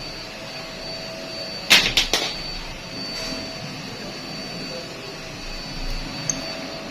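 Three sharp knocks in quick succession about two seconds in, over a steady hum with a faint high whine. A small click follows near the end.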